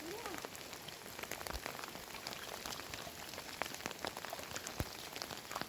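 Heavy rain falling steadily, a constant hiss dotted with many sharp ticks of single drops striking.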